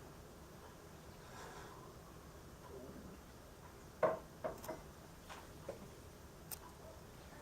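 Woodpecker pecking: about half a dozen sharp, irregular wooden taps starting about four seconds in, the first the loudest.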